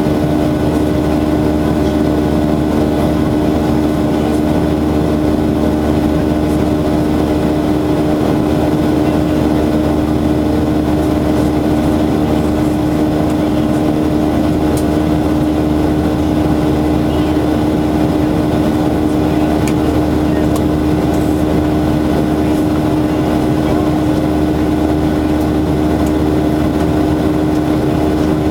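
Cabin noise of a Boeing 737-800 in flight: its CFM56-7B engines running steadily, a constant hum with a few fixed tones over rushing air.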